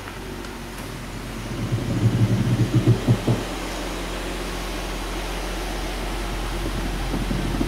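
2009 Dodge Journey's engine starting from cold: a short run of rough pulses as it cranks and catches, then settling into a steady idle.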